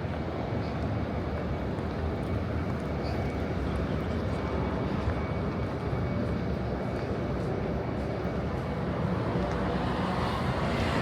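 Steady low rumble of outdoor city ambience, with a faint steady high tone running through it.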